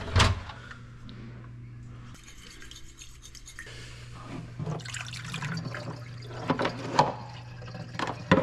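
Liquid dripping and sloshing as fish pieces are worked through wet batter, with a few sharp clinks of dishes near the end, over a steady low hum.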